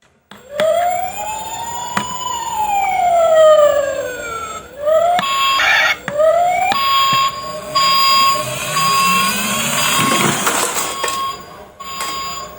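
A siren: one long wail rising and then falling, two short rising whoops, then a run of steady beeps about once a second, with a burst of hiss about ten seconds in.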